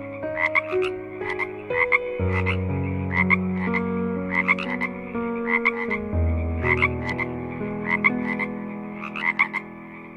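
A frog croaking over and over in short rattling bursts, about one or two a second. Under it runs soft background music of held notes that change in steps.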